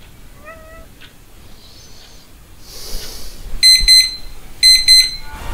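Digital alarm clock going off: two loud bursts of about four quick, high beeps each, a second apart, in the second half. Near the start a cat gives a short meow.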